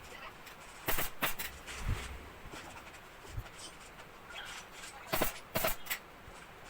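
Sharp clicks or knocks in two quick groups of about three, one around a second in and one near the end.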